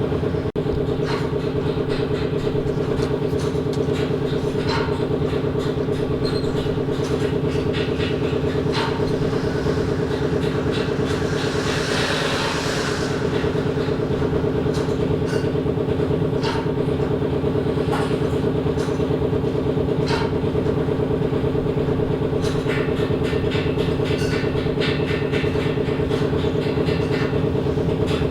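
Metalworking machinery in an ironworks shop running steadily: a constant low mechanical hum with a fast, even rhythm and scattered sharp metallic clicks. A short hiss rises and fades about twelve seconds in.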